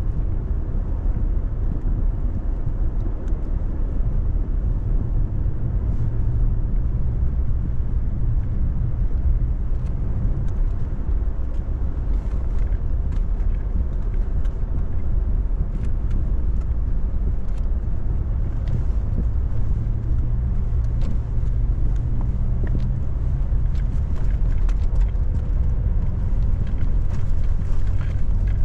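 2018 Toyota Tacoma pickup driving along an unplowed, snow-covered road: a steady low rumble of engine and tyres, with scattered light clicks and knocks from about ten seconds in.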